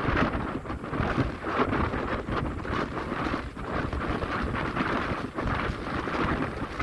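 Wind buffeting the microphone on a moving ferry, a gusting rush of noise over the sound of the sea.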